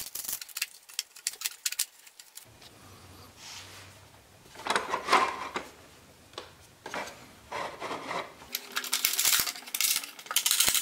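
Small metal hardware clinking, with scattered clicks and a few louder scrapes, as a router table's bracket nuts are loosened, slid into the table slots and tightened.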